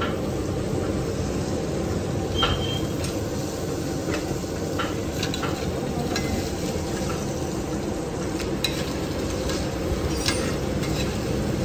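Green garlic paste sizzling in cow ghee in a hot pan while a metal spatula stirs and scrapes it, with scattered sharp clicks of the spatula on the pan.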